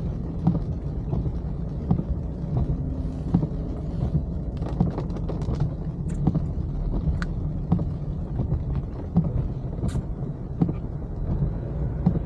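A car being driven, heard inside the cabin: a steady low rumble of engine and road, with scattered light taps and clicks, the sharpest about seven and ten seconds in.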